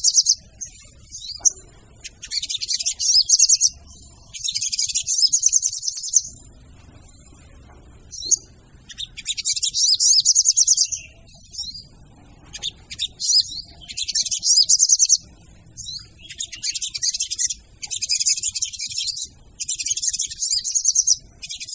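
Female sogon bird's call, used as a lure to set off other sogon birds: repeated bursts of rapid, high trilling, each about a second long, coming every second or two.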